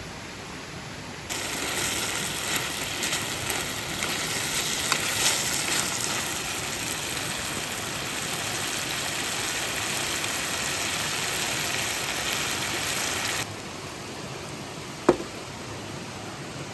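Food sizzling and crackling in a hot pan. The sizzle starts suddenly about a second in and cuts off suddenly, after which a single sharp click sounds over a steady background hiss.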